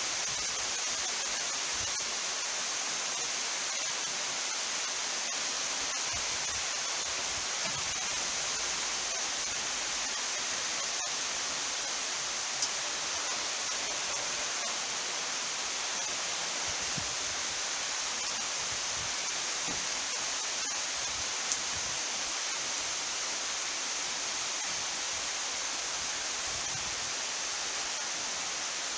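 Heavy rain from a summer thunderstorm downpour falling steadily, an even hiss, with two faint clicks about halfway through and near two-thirds of the way.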